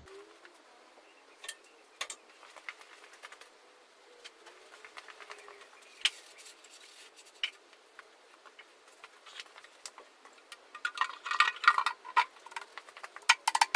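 Light metallic clicks and clinks of an engine oil pan and its bolts being handled and fitted, scattered at first, then a dense run of louder rattling clinks near the end.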